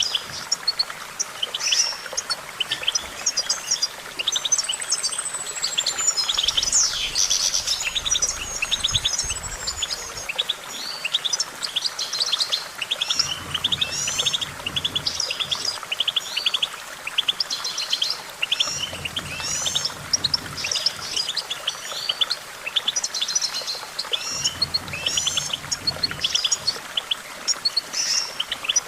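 European goldfinch singing: an unbroken stream of fast twittering trills and chirps, with a few longer sweeping notes mixed in.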